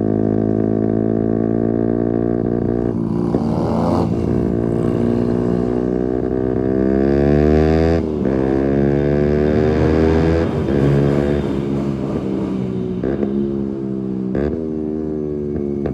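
Keeway RKF 125 motorcycle's single-cylinder engine through a Mivv exhaust with the dB killer removed, running steady for about three seconds, then revving up. Its pitch climbs and drops sharply at gear changes, about eight seconds in and several times after.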